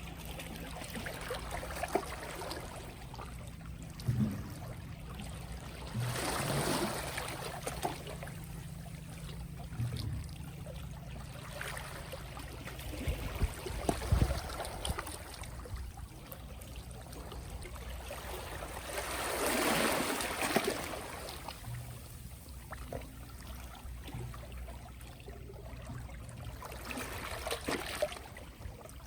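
Small, gentle sea waves lapping and washing ashore, swelling louder twice, about a quarter of the way in and again past the middle. A few brief sharp knocks, the loudest about halfway through, over a steady low rumble.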